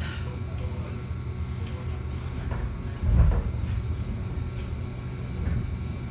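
Running noise of a 211-series electric train heard inside the car: a steady low rumble with a few sharp clacks and a heavier thump about three seconds in.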